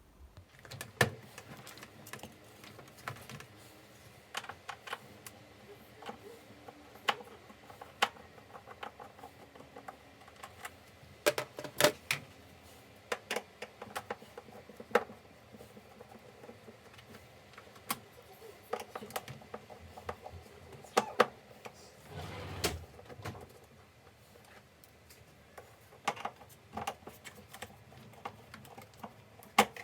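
Irregular light clicks and knocks of hard objects being handled, with one duller thump a little over twenty seconds in.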